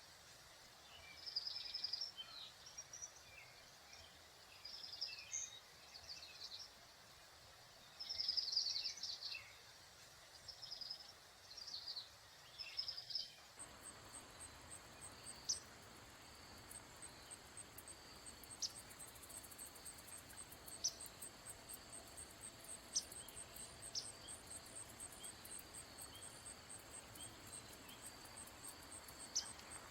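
High bird twittering in short bursts of a second or so through the first half. After a sudden change about halfway, a steady high insect trill takes over, with sharp single chip notes every few seconds.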